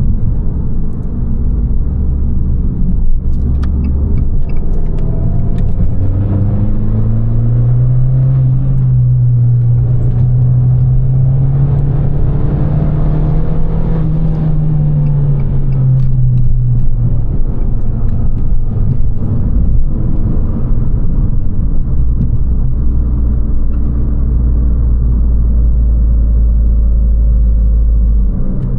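Abarth 595 Competizione's turbocharged 1.4 T-Jet four-cylinder, breathing through a Record Monza exhaust, driving under steady load. Its note climbs slowly in pitch for about ten seconds, then eases off and falls, over a constant low road rumble.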